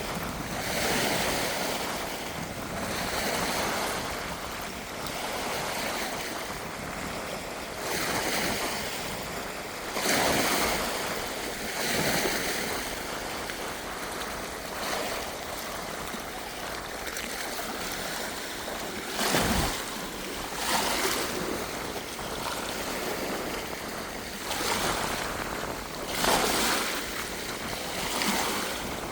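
Strong wind blowing in irregular gusts that swell and fade every few seconds, with some gusts buffeting the microphone.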